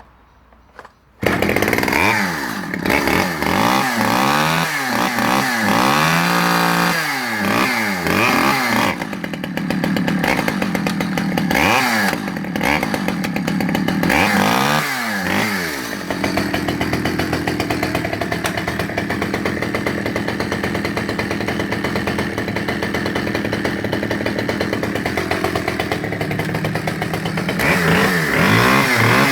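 Stihl 010 AV 37 cc two-stroke chainsaw starting abruptly about a second in, then revved up and down over and over. It settles into a steady run from about halfway, and revs climb again near the end.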